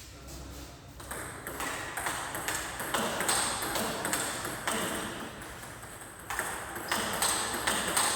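Repeated sharp hits of a racket-sport rally, several knocks a second coming in quick succession, growing louder after about a second in.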